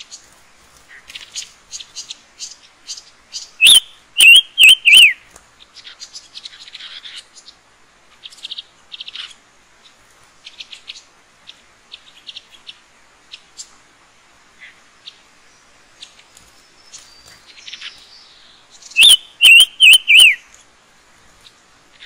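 Small forest birds, the trapper's pancawarna, chirping around a bird trap with a steady run of short, soft chirps. Twice, about four seconds in and again near the end, a loud call of four sharp, downward-hooking notes comes in.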